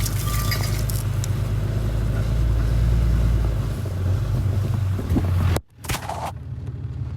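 Truck engine running steadily with a low hum, which cuts off abruptly about five and a half seconds in, followed by a brief knock.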